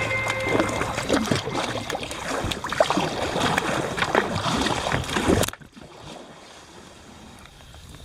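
Water splashing and dripping around a kayak being paddled, a busy run of irregular splashes that cuts off abruptly about five and a half seconds in, leaving a quieter steady background.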